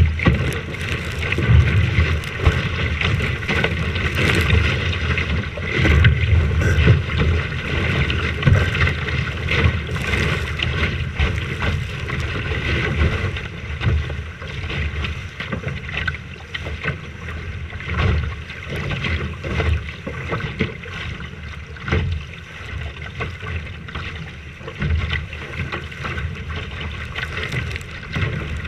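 Strong wind buffeting the microphone in uneven gusts, over a steady hiss of wind and water.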